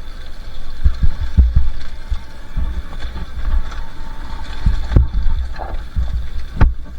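Two-stroke dirt bike running on a trail ride, buried under heavy, uneven low rumble and sharp knocks from wind and bumps on the camera microphone.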